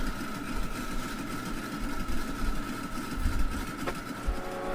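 Street-race cars' engines idling and rumbling unevenly at the line before a race, with a Ford Mustang among them.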